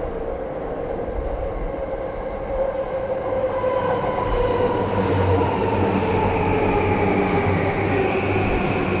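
Electric commuter train pulling into the platform: the motors' electronic whine slides steadily down in pitch as the train brakes, over a low rumble of wheels that grows louder from about two seconds in.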